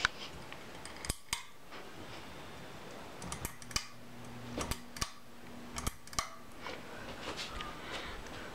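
A Hunter Ridgefield II ceiling fan's pull chain and switch giving a series of sharp clicks and light metallic rattles. A low steady hum comes in for about three seconds in the middle.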